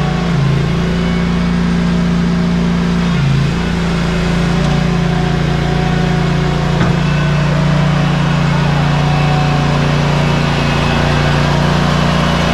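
Ready-mix concrete mixer truck's diesel engine running steadily during a concrete pour, a constant low drone with only brief small shifts in pitch.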